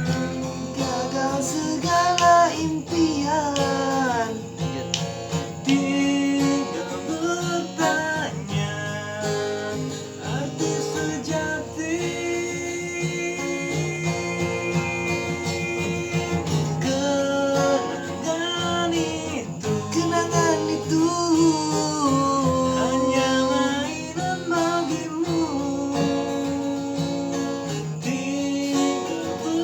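Acoustic guitar music: strummed chords under a gliding melody line, an instrumental passage of the song with no words sung.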